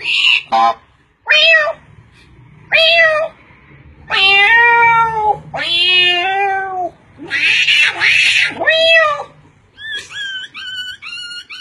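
A cat meowing, about six separate drawn-out calls, one of them rougher and more hissy. Near the end a different run of short, quickly repeated calls from another animal begins.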